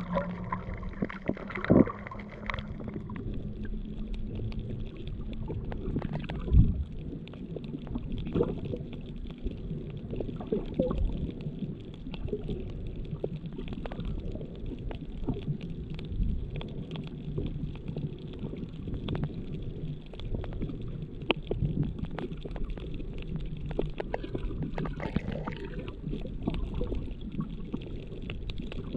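Underwater sound picked up by a GoPro Hero7 camera's own microphone with no housing: a muffled low rumble of water movement, scattered with many short clicks and crackles. A humming tone fades out in the first few seconds.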